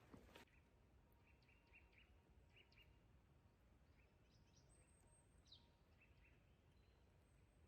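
Near silence in a forest, with faint, scattered short bird chirps.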